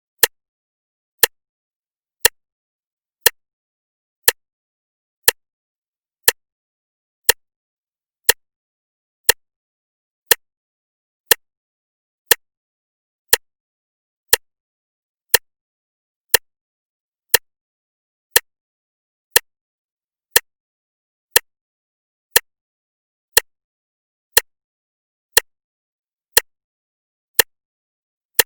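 Clock ticking steadily, one sharp tick about every second with silence between the ticks.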